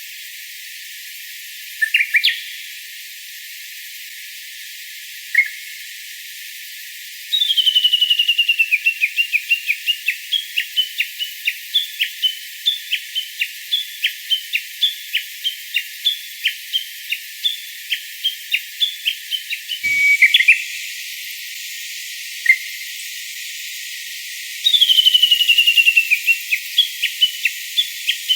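A wild songbird calling: a few short chirps, then a fast falling trill followed by a long run of short, sharp whistled notes about two or three a second. The pattern starts again near the end.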